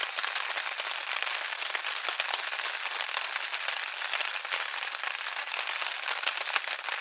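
Heavy rain pattering on a vinyl sheet overhead: a dense, steady crackle of countless small drop ticks.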